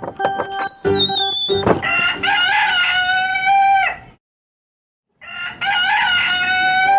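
A rooster crowing twice, each crow about two seconds long, with a second of silence between them. Keyboard music is heard just before the first crow.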